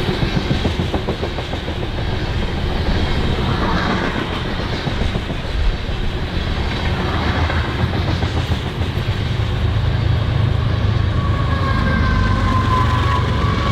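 Freight train rolling past: a steady low rumble with the clickety-clack of wheels over the rails. Near the end a high, wavering squeal joins in.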